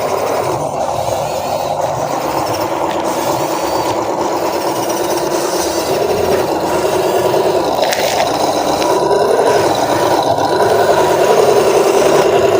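Small electric RC off-road truck driving: its motor and gearbox whining steadily, with the pitch rising and dipping as the throttle changes.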